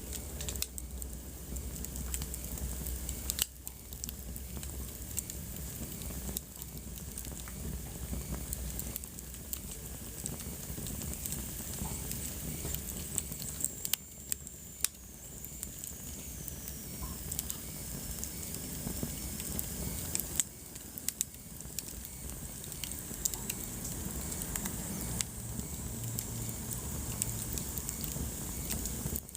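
Wood fire burning in a fireplace, crackling with many small irregular pops over a steady low rumble and hiss. Midway a faint high whistle glides slowly down in pitch.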